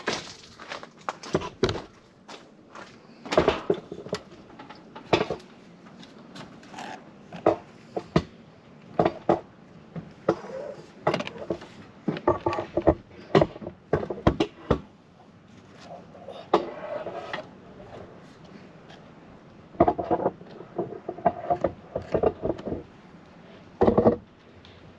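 A run of irregular knocks, taps and scrapes, with several louder knocks scattered through.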